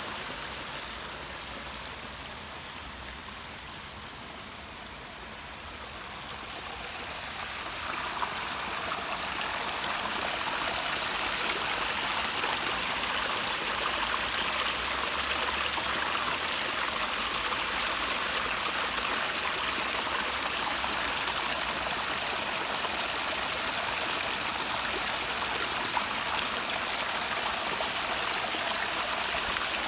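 Water pouring over a garden waterfall: a steady rushing splash that swells louder about seven seconds in, then holds steady.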